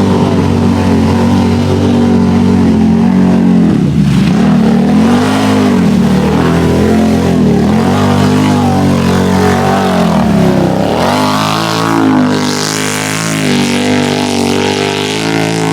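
Off-road vehicle engine run at full throttle through a deep mud hole, its pitch dipping and climbing again every second or two as it bogs and revs back up.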